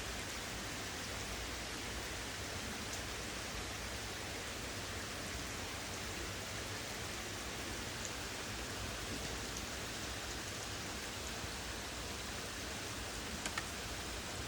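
Steady rain falling during a thunderstorm, an even hiss with a few sharper drop ticks near the end.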